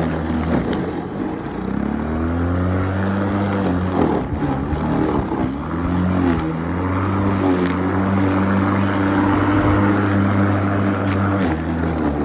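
Greenworks 48V cordless lawnmower's electric motor and blade running as it cuts grass on a low setting. The hum's pitch sags and recovers several times under load, with the battery running low, which the owner believes.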